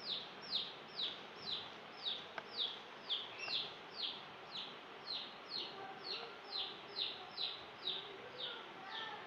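A bird calling over and over with a short, high, falling chirp, about two a second, stopping near the end.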